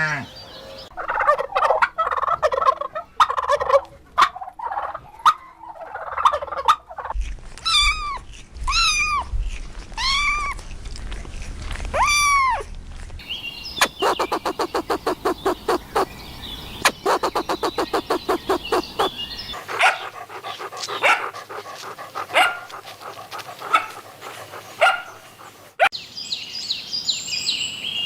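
Domestic fowl calling in several cut-together clips: short mixed calls, then a string of repeated arching calls about once a second, then a fast run of sharp rattling pulses.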